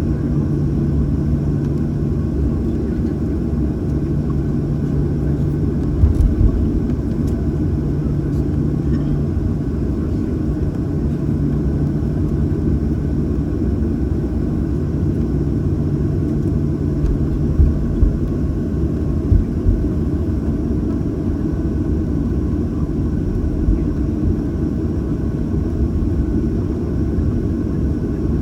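Boeing 737-800's CFM56-7B engines at idle, heard from inside the passenger cabin as a steady low rumble with a hum that fades in and out. A few brief thumps sound over it.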